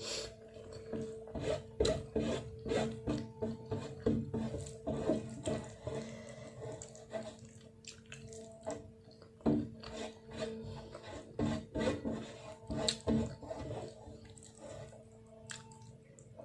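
Close-miked eating sounds: fingers mixing and scooping food on a thali plate and wet chewing, a string of irregular clicks and smacks over a faint steady hum.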